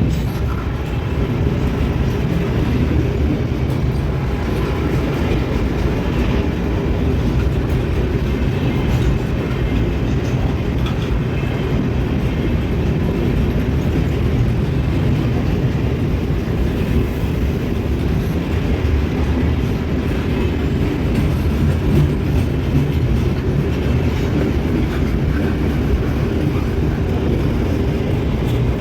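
A loaded freight train rolling steadily past, its wagons' wheels rumbling on the rails with faint clicks.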